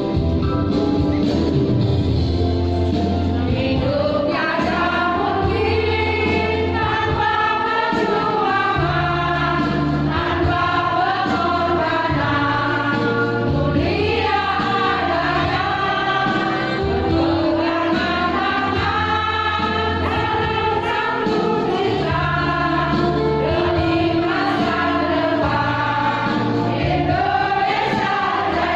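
A choir rehearsing, singing a song together over low sustained bass notes that change every second or two.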